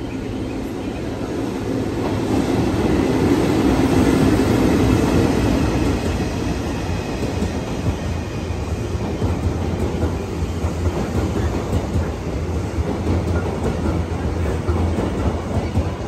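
EF65 electric locomotive and its train of Royal Express passenger cars passing through the station. The locomotive's pass swells to its loudest about four seconds in. After that comes a run of regular wheel clacks over the rail joints as the towed cars roll by.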